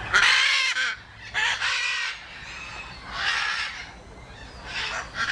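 A bird giving four harsh, honking calls, each under a second long and spaced about a second or more apart.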